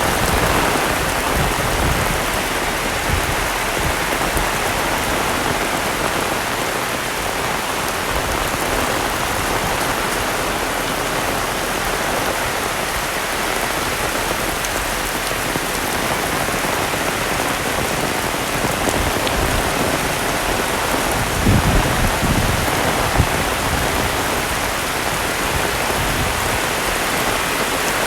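Heavy rain falling steadily and densely. Near the end there is a short run of low thumps.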